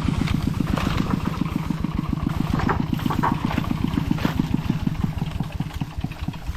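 A small engine running with a steady, rapid chugging beat that fades away near the end.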